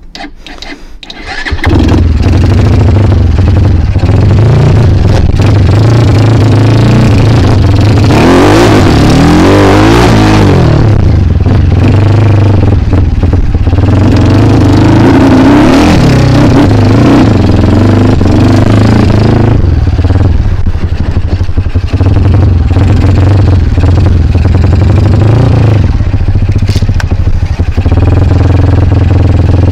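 Kawasaki KLX dirt bike engine running loud and close, coming in sharply about one and a half seconds in, with the revs rising and falling a few times.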